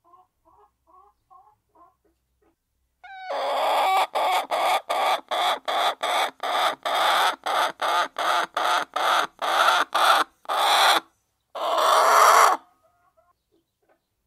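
Hen clucking softly, then breaking into a long, loud cackle: a run of harsh squawks at about two a second, ending in one longer squawk.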